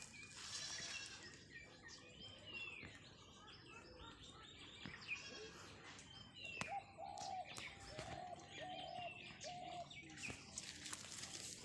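Faint birdsong: several birds chirping with quick gliding notes, and a lower call repeated about five times in the middle. A few sharp clicks are mixed in.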